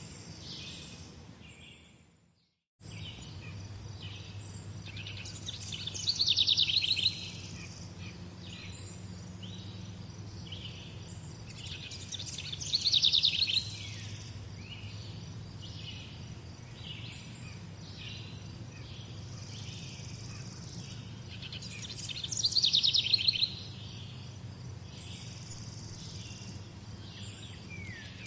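Several birds chirping and singing in a morning chorus, with a louder trilled song about a second long coming three times, and a steady low hum underneath. About two seconds in the sound fades out to silence for a moment and comes back.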